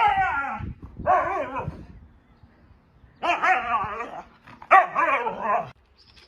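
A dog vocalizing in four drawn-out calls with wavering pitch, each under a second long, two close together at the start and two more about three seconds in.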